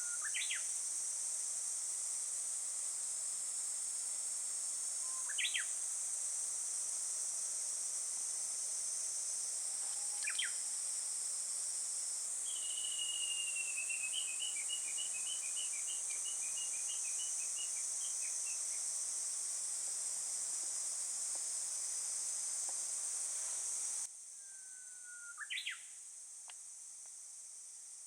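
Outdoor birdsong over a steady high-pitched insect chorus: a songbird gives short, sharp calls every few seconds, with a rippling trill in the middle. The insect drone stops abruptly near the end.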